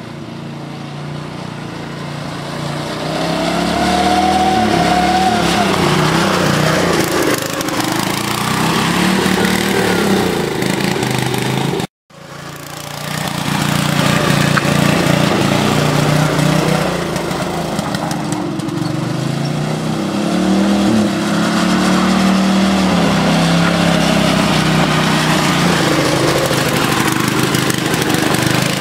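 Custom lawn tractor's small engine running and revving up and down. It cuts off abruptly about twelve seconds in, then picks up again and runs on.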